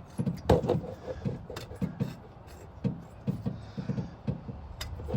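Hand tools working exhaust manifold bolts: a series of short low knocks and handling noises, several a second, with a few sharp metallic clicks, the loudest about half a second in.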